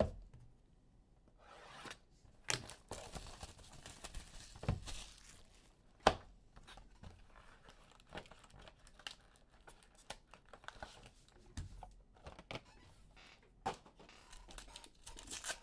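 Trading card packaging being torn open and crinkled: wrap and foil packs of a Panini Prizm football hobby box ripped and crumpled by hand, with scattered sharp snaps and rustling as the cards are handled.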